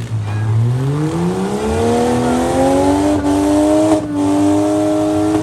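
Demolition derby vehicle's engine revving hard, climbing steadily in pitch for about three seconds and then held at high revs, with a brief break about four seconds in.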